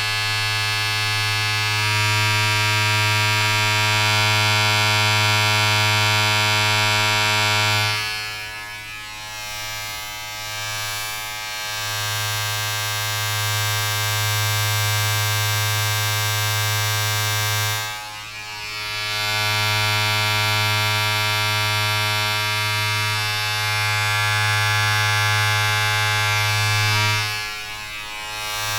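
Steady electric buzz of a small vibrating appliance, with a low hum and many overtones. It eases off briefly three times: about a third of the way in, around two thirds, and near the end.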